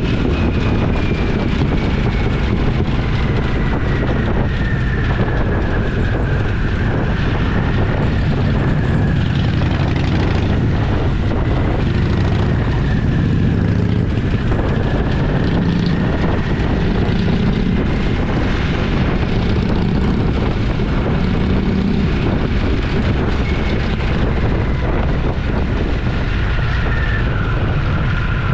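Motorcycle engine running steadily under way, heard from the bike itself, with a thin whine that drifts slowly up and down in pitch over a continuous rumble and rush of wind.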